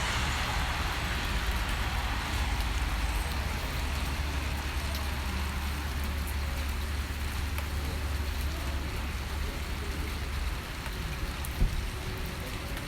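Steady rain hiss with a low rumble under it that eases near the end, and a single sharp thump towards the end.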